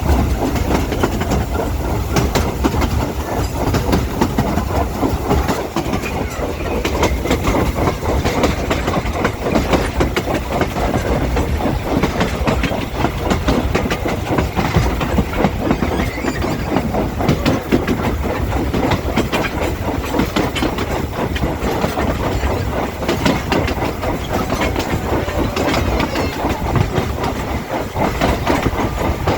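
Heritage train running along the track: a steady rumble with wheels clattering over rail joints and the rolling stock rattling.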